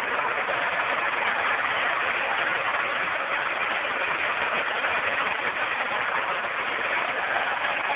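Tractor engines running steadily with a dense, even noise.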